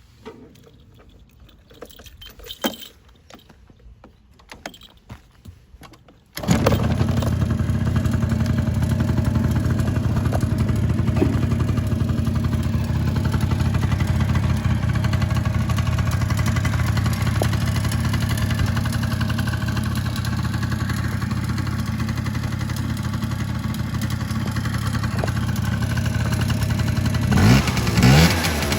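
Honda DJ1 scooter's small two-stroke engine: a few faint clicks and knocks, then it catches suddenly about six seconds in and idles steadily, with a few quick revs near the end.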